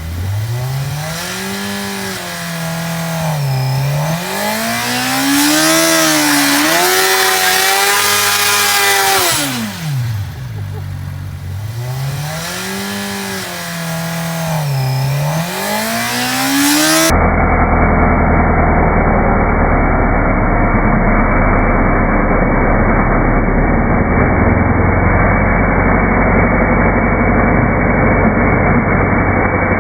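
Suzuki GSX-R600 inline-four sportbike engine revved up and down in long sweeps. About two-thirds of the way through, a sudden cut to a duller-sounding recording gives a loud, steady noise of the engine held high for the burnout.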